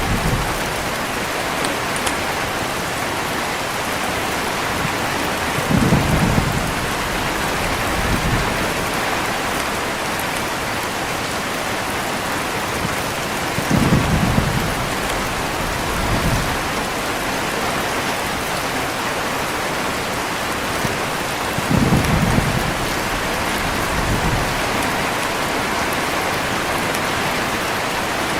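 Heavy rain falling steadily, with thunder rumbling three times, about eight seconds apart, each rumble followed shortly by a softer one.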